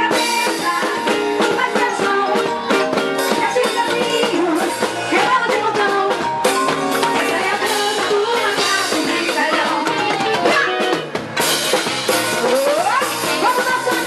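Upbeat frevo music played by a band, with a drum kit keeping a fast beat and voices singing along. A rising glide in pitch comes near the end.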